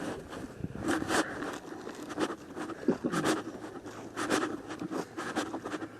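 Footsteps on a hiking trail, a scraping crunch at each step, roughly one a second.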